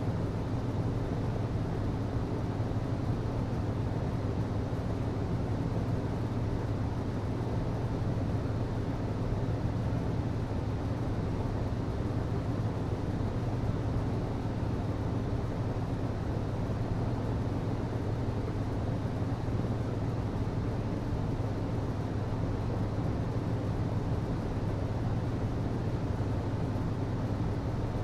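HVAC system running: a steady rush of moving air over a low, unchanging hum.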